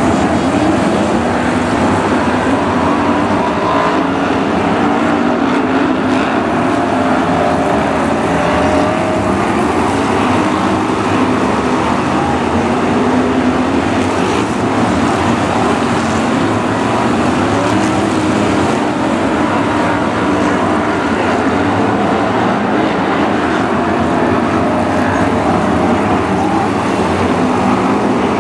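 A pack of BRISCA F1 stock cars racing, their V8 engines running loud and continuous, several pitches rising and falling together as the cars lap the track.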